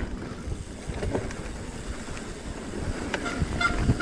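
Wind buffeting the microphone over the low rumble of a mountain bike rolling along a trail, with occasional knocks. Short steady tones set in near the end.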